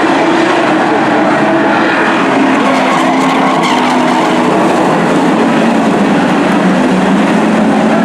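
Race truck engines running on a short oval track, several engine notes rising and falling as the trucks go around and past.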